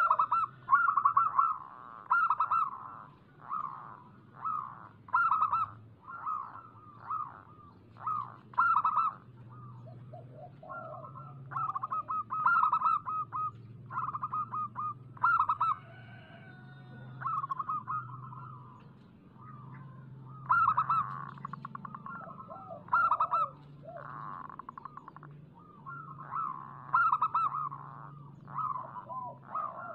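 Zebra dove cooing in short, rapid phrases of staccato notes, one phrase every second or two, over a faint steady low hum.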